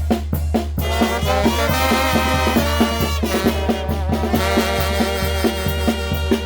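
Traditional Oaxacan brass band playing: drums keep a steady beat while the brass comes in with held, chord-like notes about a second in, thins briefly around the middle, and drops out near the end, leaving the drums alone.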